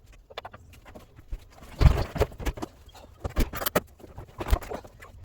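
Washer tub and drum assembly being wrestled back into the LG front-loader's cabinet and hung on its suspension springs: irregular knocks, clunks and rattles, the loudest a heavy thud about two seconds in.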